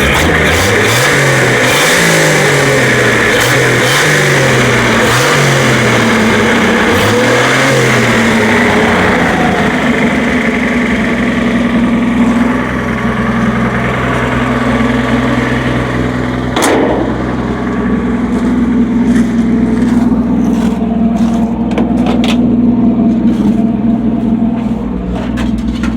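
A 1966 Chevy C10's original 250 cubic-inch inline-six engine blipped up and down about five times, then settling to a steady idle. A single sharp click comes about two-thirds of the way through.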